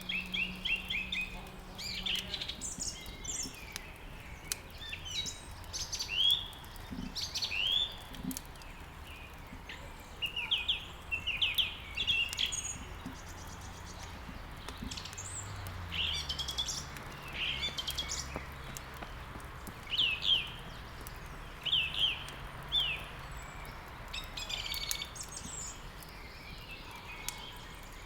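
Songbirds chirping and twittering in quick clusters of short sweeping notes, over faint crackling from a wood fire.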